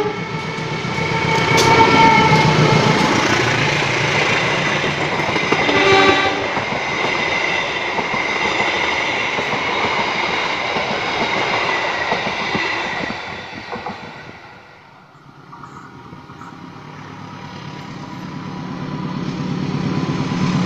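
A train passing close by, its rumble and wheel clatter filling the first dozen seconds, with its horn sounding at the start and again about six seconds in. The noise dies away around fifteen seconds in, then another train's sound builds up steadily as it approaches.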